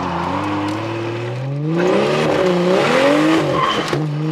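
Car engine accelerating hard through the gears, its pitch climbing and then dropping back at an upshift, about twice.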